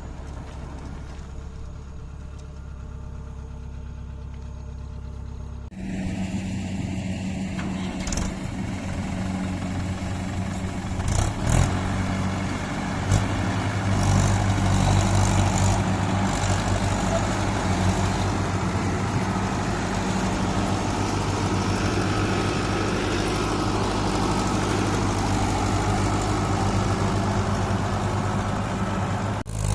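Kubota combine harvester's engine running steadily, a low hum that jumps abruptly louder about six seconds in and grows louder again midway, with a few sharp knocks in between.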